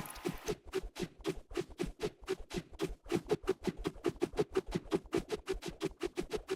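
Rapid, evenly spaced scratching strokes, about five a second, a little faster after about three seconds.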